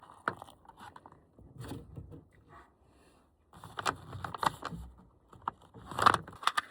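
Rummaging through camp cooking gear: irregular clicks, light knocks and rustles of things being handled, busiest in the second half, with the loudest knock about six seconds in.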